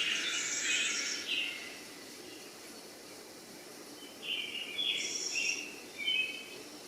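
Birds chirping in two bursts over a faint steady background hiss: one in the first second and a half, another from about four seconds in.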